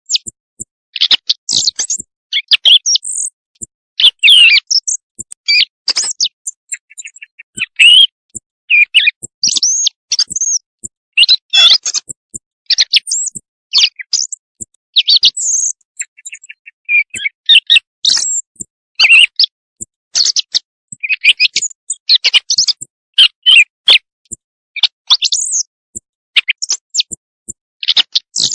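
Bird calls played as a night-time quail lure: a dense, unbroken run of quick high chirps and squeaky calls, with short fast trills now and then.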